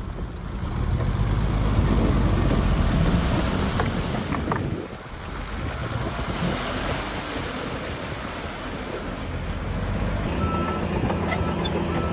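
Heavy diesel earthmoving machinery running, a low engine rumble with track and ground noise. It is loudest early, drops about five seconds in, then settles into a steadier engine drone that swells near the end.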